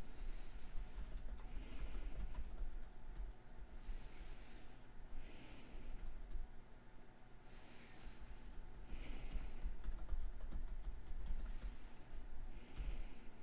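A person breathing slowly and steadily close to the microphone, in and out about once every four seconds, with faint scattered clicking from computer use and a steady low hum underneath.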